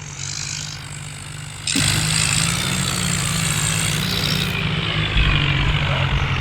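Tractor diesel engines running hard under load in a tractor tug-of-war. They get sharply louder a little under two seconds in and stay loud.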